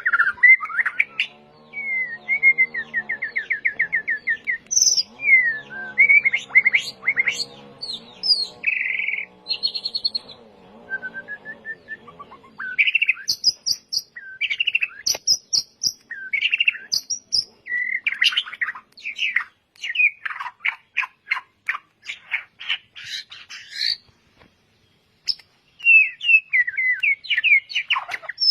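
White-rumped shama (murai batu) singing a long, varied song of whistles, slurred notes and rapid trilled runs, broken by short pauses. A faint low hum runs under the first twelve seconds.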